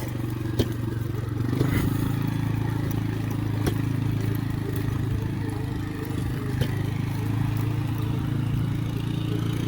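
Electric pit bike being ridden over a rough forest trail: its motor hums steadily, with a few sharp knocks and clatter as it goes over bumps and sticks hit the bike.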